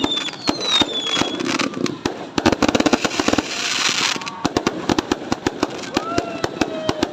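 Fireworks going off in rapid succession, a dense run of sharp bangs and pops. A falling whistle sounds in the first second, and a stretch of hissing crackle comes in the middle.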